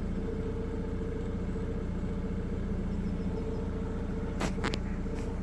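Steady hum of a Jaguar X-Type running at idle, heard from inside the cabin. A few short sharp clicks come about four and a half seconds in.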